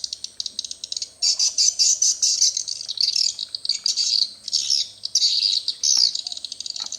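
Swiftlet calls: dense, rapid high-pitched chirping and trilling that runs almost without a break, with a short lull about a second in. This is the kind of sound a swiftlet house's lure speakers play to draw birds in, mixed with the calls of live swiftlets.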